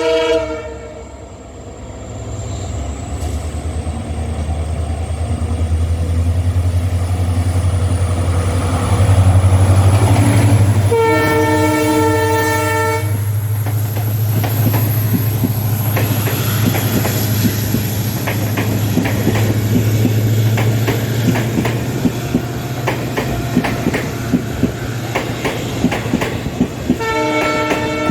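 WDP-4 diesel locomotive passing at speed without stopping. Its engine drone builds as it nears, it sounds a horn blast of about two seconds some eleven seconds in, and then the coaches run past with a rapid clickety-clack of wheels over rail joints. A horn blast cuts off at the very start, and another begins near the end.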